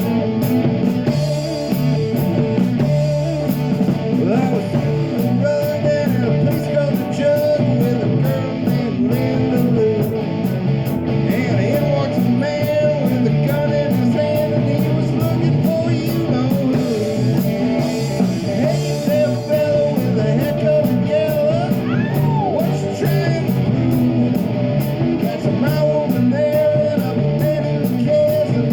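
Live rock band playing: electric guitar, bass and drums with a steady beat, and a singer.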